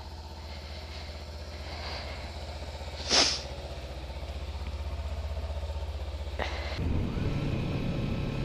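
Kawasaki Ninja 300's parallel-twin engine running under way, a steady low drone that slowly grows louder and fuller near the end, with a brief loud hiss about three seconds in.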